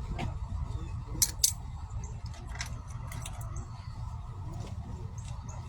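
Several short, sharp clicks over a steady low rumble, the two loudest close together about a second in.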